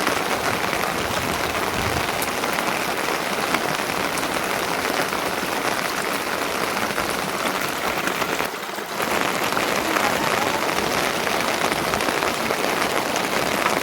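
Steady rain, a dense even patter, briefly dropping away about eight and a half seconds in.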